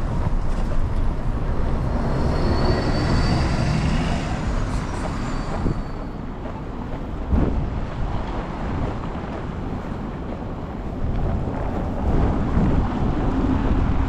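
Wind buffeting the microphone over steady city traffic noise in a snowstorm. A high-pitched squeal from a vehicle sounds from about two to six seconds in, and there is a short knock about halfway through.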